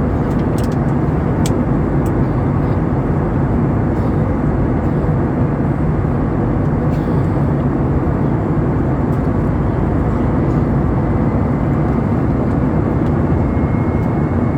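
Steady drone of an Airbus A320's CFM56 engines and airflow heard inside the passenger cabin, an even low rushing noise that holds constant, with a faint high whine coming in near the end.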